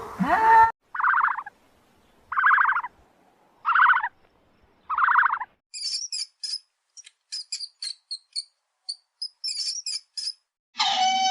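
Four short, rough animal calls about a second and a half apart, followed by a long run of quick, high bird chirps.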